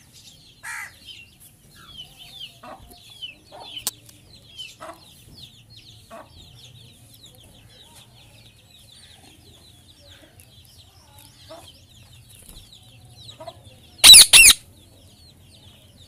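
Birds cheeping faintly and steadily in many short high chirps, with two loud, harsh squawks close together about fourteen seconds in.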